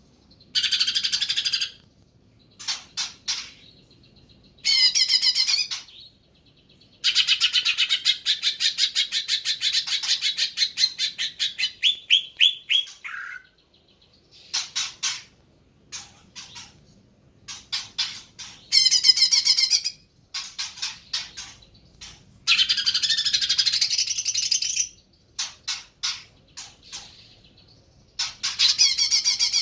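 Cucak ijo (green leafbird) singing in loud bursts of song with short pauses between, one long phrase a rapid string of repeated notes.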